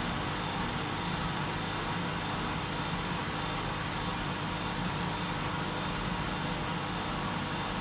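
Washing machine running partway through its wash program: a steady motor hum under a constant wash of noise.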